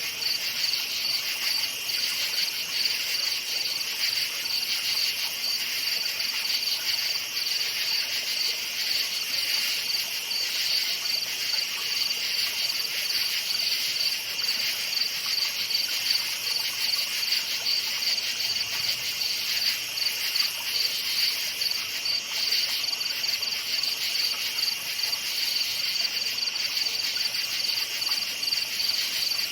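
Many crickets chirping at once in a continuous, dense chorus of high-pitched pulsing trills, steady throughout.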